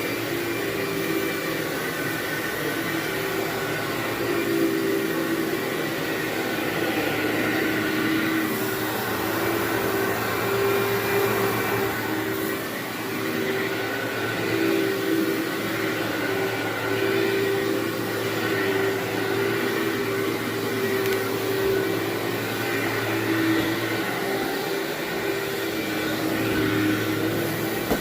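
Vacuum cleaner running steadily as it vacuums carpet, its motor hum wavering slightly in pitch.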